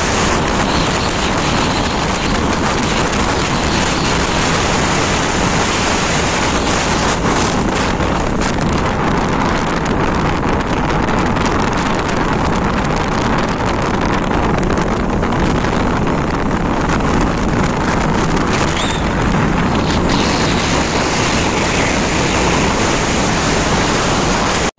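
Loud, steady wind buffeting the microphone of a moving motorbike, with the ride's road noise beneath it; it cuts off suddenly at the end.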